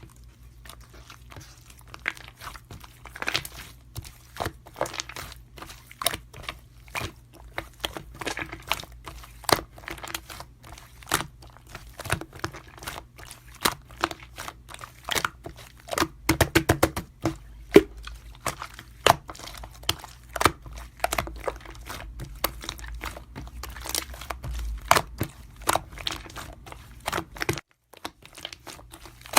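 Rapid, irregular clicks and taps, several a second, over a low steady hum, with a quick even run of clicks about halfway through.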